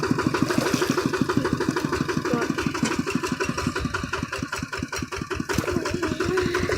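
Kubota RT155 single-cylinder diesel engine of a hand tractor running steadily, a fast even chugging of about ten beats a second.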